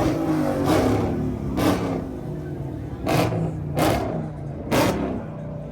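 Car engine revving, with five sharp rev blips about a second apart over a steady running note.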